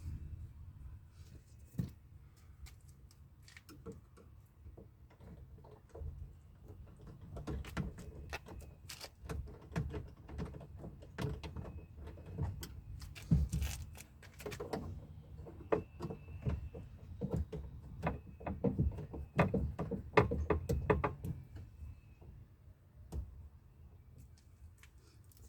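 Hand tools and metal parts clicking, knocking and rattling against a UAZ Patriot's front door while its power-window motor is being unbolted. The clicks come in irregular runs, busiest through the middle stretch.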